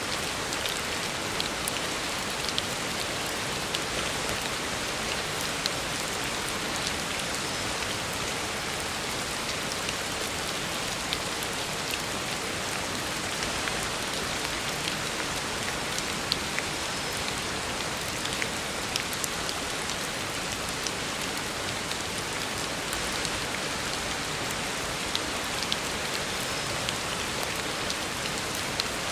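Heavy rain falling steadily on a road, a dense even hiss with scattered sharper drop splashes.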